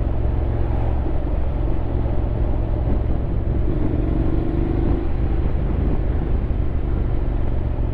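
Honda X-ADV 750's parallel-twin engine running steadily on the move, under a constant rumble of wind and road noise.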